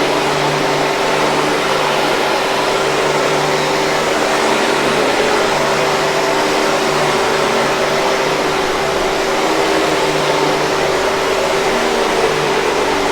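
Hoover 5000 Series canister vacuum cleaner running continuously: a steady rushing of air with a constant motor hum.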